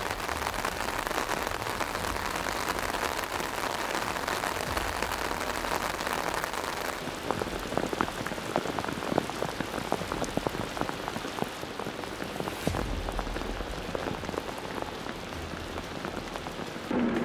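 Torrential rain pouring down in a dense, steady hiss. From about seven seconds in, many sharp individual drop hits stand out.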